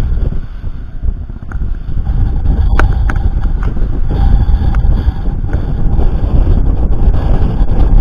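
Wind buffeting the microphone aboard a sailing yacht, a loud gusting rumble, with a few short sharp knocks around the middle.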